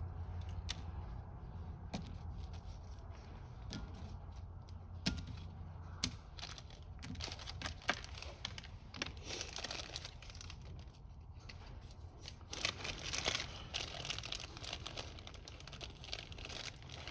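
Plastic rebuild-kit packaging crinkling and rustling, with scattered small clicks and taps, as the small parts and gaskets inside are sorted by hand. The handling is busiest about nine seconds in and again about thirteen seconds in.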